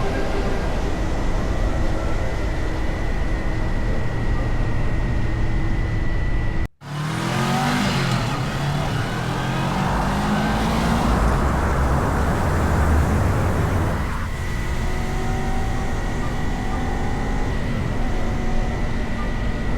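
Honda CBR400R parallel-twin engine running at road speed with wind rush. After a brief cut about seven seconds in, the engine revs rise as the bike accelerates and the wind noise swells, then settles to a steady cruise about fourteen seconds in.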